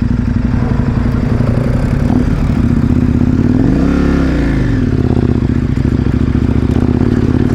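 KTM 1090 Adventure R's V-twin engine running under way. The revs rise to a peak about four seconds in and then drop back.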